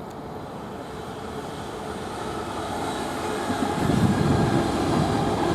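Class 455 electric multiple unit passing, its running rumble building steadily louder and growing heavier about four seconds in.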